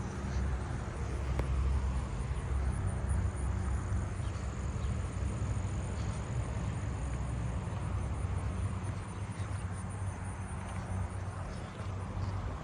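Southern ground crickets trilling, a faint, thin, steady high buzz, over a low rumble.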